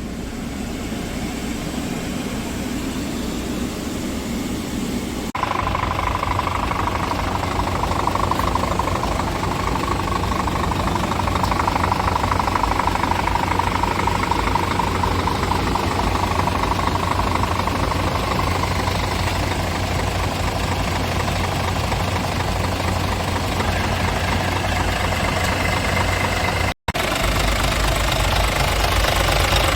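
Scania G450 truck's 13-litre straight-six diesel engine idling with a steady diesel clatter. About five seconds in the sound cuts from a duller rumble to a louder, closer engine sound, and it drops out for an instant near the end.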